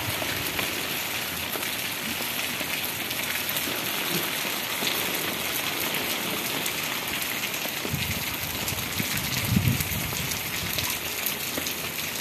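Steady rain falling on roofs and a cobbled street, an even hiss of drops. A low rumble swells briefly about nine seconds in.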